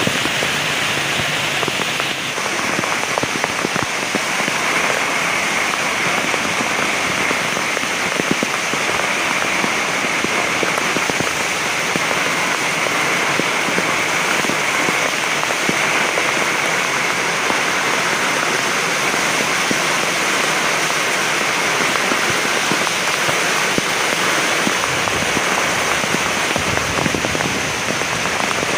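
Heavy rain falling steadily: a dense, even hiss of downpour with countless small drop impacts, shifting slightly in tone about two seconds in.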